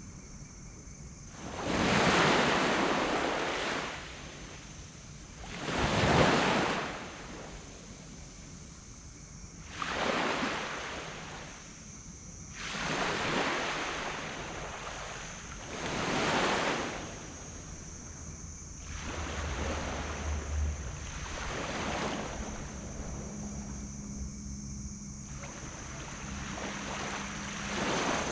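Small tropical waves breaking and washing up on a black sand beach, each surge rising and falling about every three to four seconds, the strongest ones in the first few seconds. A faint steady low hum comes in during the second half.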